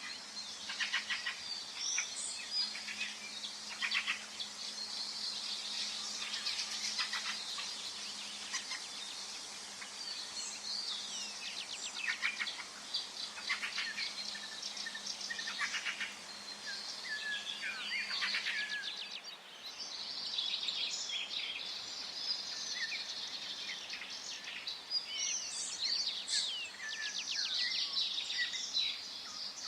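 Forest birdsong: several birds chirping and trilling at once, with a short lull about two-thirds of the way through.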